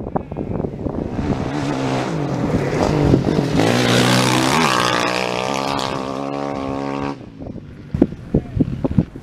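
Rally motorcycle engine revving hard as it rides past close by, its pitch dropping and climbing through gear changes and cutting off suddenly about seven seconds in. Wind buffets the microphone at the start and near the end.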